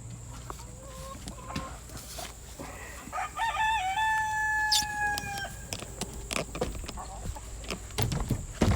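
A rooster crows once, a single long call lasting about two seconds that wavers at the start and then holds, with hens clucking around it. Near the end come a few knocks and thumps.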